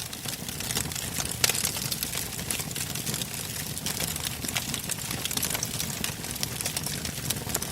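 Wood campfire burning: logs crackling and popping irregularly over a steady low rush of flame, with one sharp pop about a second and a half in.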